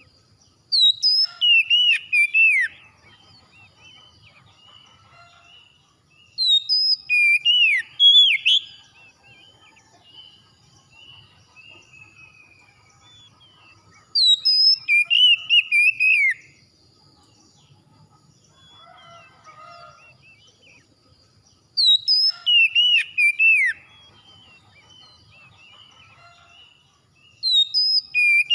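A songbird singing loud, whistled phrases of quick sweeping notes, each phrase about two seconds long and repeated about every seven seconds, with faint chirps from other birds in the gaps.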